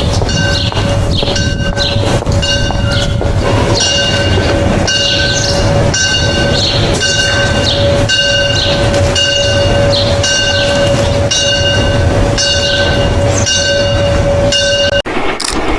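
A train, most likely a steam locomotive, with a bell ringing a little faster than once a second over a steady held tone and a running rumble. It cuts off abruptly about fifteen seconds in.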